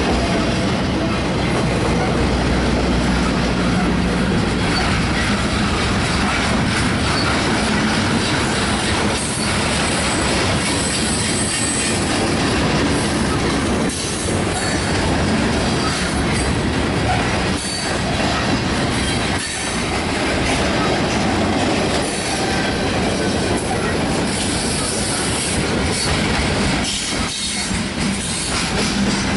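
Freight train cars rolling past at close range: a steady, loud noise of steel wheels running on the rails, with brief dips as the cars go by.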